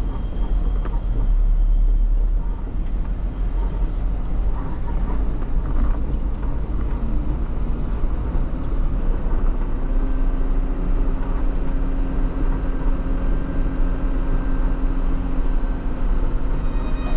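Mitsubishi Fighter dump truck's 7.5-litre diesel running with a heavy low rumble and road or yard noise. A steady hum joins in about ten seconds in.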